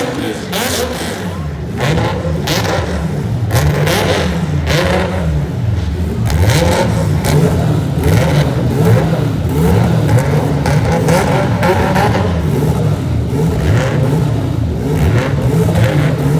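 Car engines revving and running loudly, with voices in the background.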